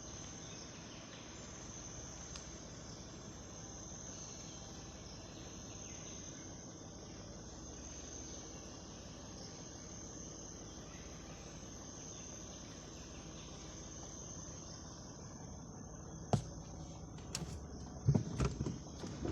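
A steady, high-pitched insect chorus with no break, and a few sharp knocks near the end.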